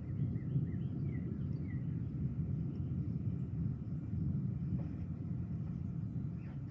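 Steady low outdoor rumble ahead of an approaching thunderstorm. A bird chirps a quick run of short notes in the first two seconds.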